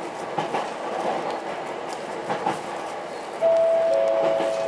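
Ichibata Electric Railway 7000-series train running, its wheels clicking over rail joints. About three and a half seconds in, a two-note electronic chime sounds over the on-board speakers: a clear higher tone, then a lower one joining it. The chime heralds the next-station announcement.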